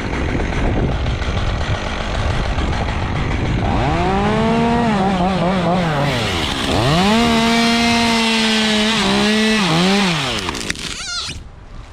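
Chainsaw revving up and cutting twice, the first time about four seconds in and again about a second after that ends. The engine pitch wavers and sags under load, then drops away near the end: a saw cut taking the top out of a tree. Wind rushes over the microphone before the saw starts.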